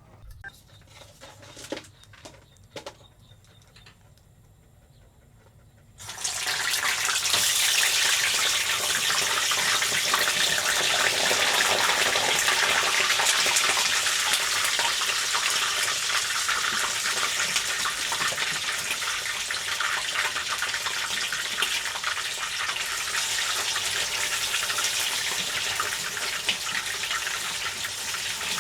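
A few faint knocks and clicks, then about six seconds in, a loud, steady rush of water starts suddenly and keeps on evenly.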